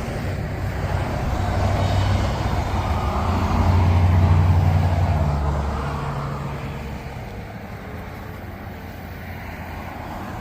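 A heavy vehicle passing: a low engine rumble that builds to its loudest about four seconds in, then fades away.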